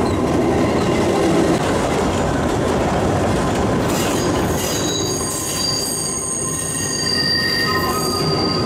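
Kurobe Gorge Railway narrow-gauge trolley train running with a steady rumble of wheels on the track. About halfway in, the steel wheels start squealing against the rails in several high, sustained tones, the usual squeal of wheels taking a tight curve.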